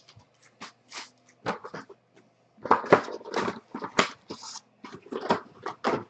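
Irregular crinkling and rustling of trading card pack wrappers and cards being handled as packs are torn open, busiest from a little before the middle onward.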